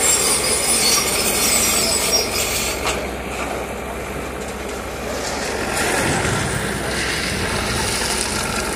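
Train running along the track, its wheel and rolling noise fading after about three seconds. A low diesel engine rumble, from a backhoe loader at the track works, builds near the end.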